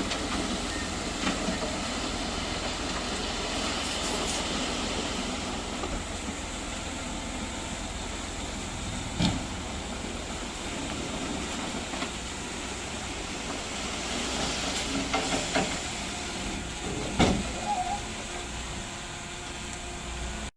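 Komatsu bulldozer's diesel engine running steadily under load with track clatter, and a couple of sharp metal clanks, once about nine seconds in and again near the end.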